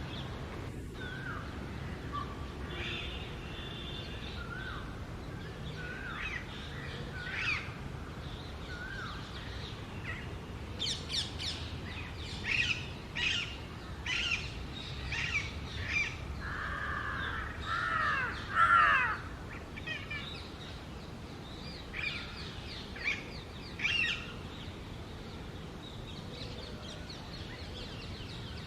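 Female Alexandrine parakeet calling: harsh, sharp calls, a run of them about once a second in the middle, then a longer, louder call, with a few more calls near the end.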